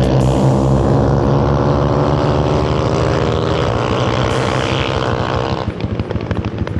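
A 125cc single-cylinder pitbike engine running hard at high revs, holding a steady pitch that sags a little. About five and a half seconds in it drops off the throttle to a choppy, uneven low-rev burble.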